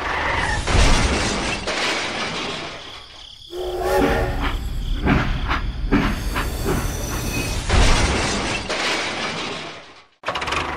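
Train sound running on rails with a rumbling clatter, and a horn sounding briefly about four seconds in.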